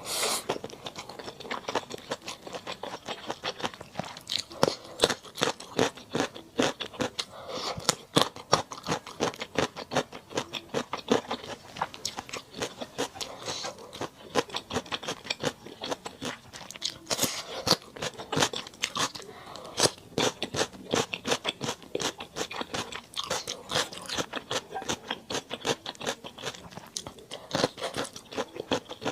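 Close-miked eating sounds: a person chewing and crunching on mala duck, with many quick, irregular crunches and wet chewing throughout.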